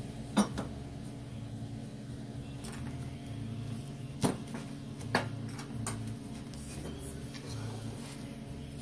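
Three sharp clicks and knocks of small hard parts or tools being handled during carburetor work, over a steady low hum.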